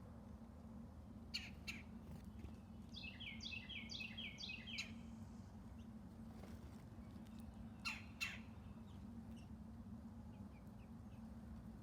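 Northern cardinal singing a quick run of repeated down-slurred whistled notes a few seconds in, with pairs of sharp call notes before and after the phrase. A faint steady low hum sits underneath.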